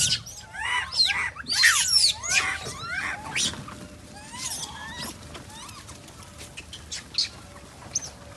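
Many short, squeaky animal calls that slide up and down in pitch, crowding together over the first few seconds, then thinning to a few scattered chirps.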